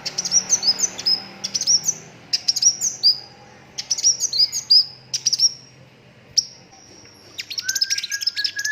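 A sunbird singing: clusters of quick, high chirps and short trills separated by brief pauses, then near the end a fast, dense run of notes with a lower drawn-out whistle beneath it.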